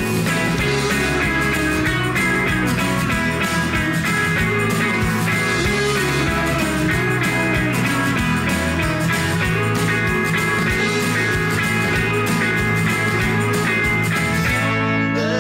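Instrumental break of a folk-rock band's song: strummed and plucked guitars over a steady beat, with no singing.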